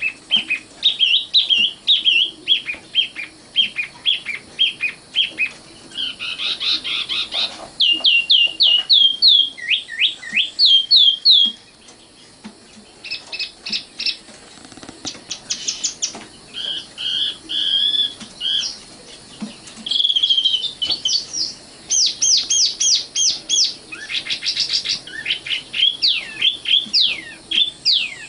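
Common nightingale singing: a varied song of rapid repeated whistled notes and trills, many of them sweeping downward, delivered in phrases with short gaps and a brief pause about twelve seconds in.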